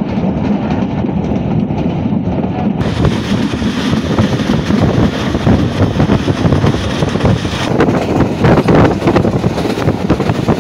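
Diesel-hauled passenger train running at speed, heard from the leading coach: a steady rumble of wheels on the track, with wind on the microphone. Sharper clattering comes in over the last few seconds.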